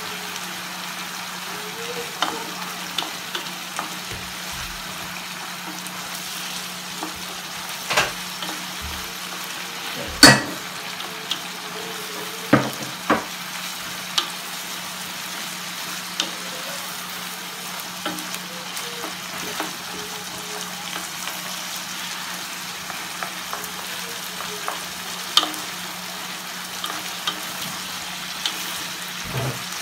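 Chicken and seafood (shrimp, calamari, mussels) sizzling as they fry in a wide paella pan while being stirred with a wooden spoon. The spoon knocks against the pan now and then, loudest about ten seconds in.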